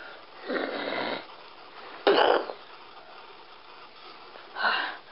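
Three short, breathy bursts made with the mouth, imitating gunshots. The loudest comes about two seconds in, with a shorter one near the end.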